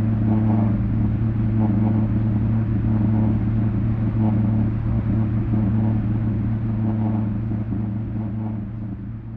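Looped audio from a vinyl record played through a subwoofer: a loud, steady low drone held on one pitch and its octave, with a rough, repeating texture above it. It begins to fade out near the end.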